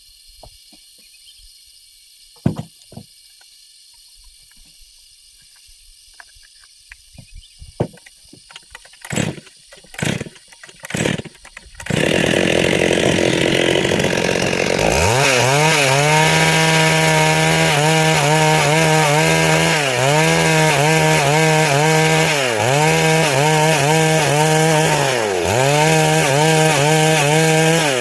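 Two-stroke chainsaw: after a few scattered knocks and three short loud bursts, it catches about twelve seconds in. It then runs at high revs while cutting through wood, its pitch sagging briefly a few times under load.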